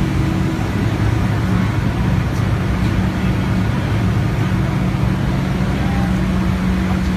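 Stock race car engine idling steadily: a loud, even, deep drone with no revving.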